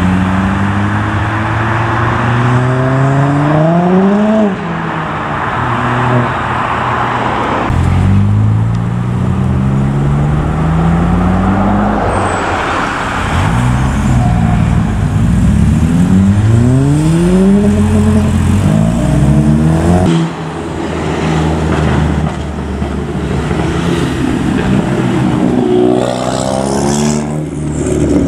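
Ford Fiesta ST engines accelerating hard, the revs climbing and dropping back several times as they change up through the gears, in short clips joined by abrupt cuts.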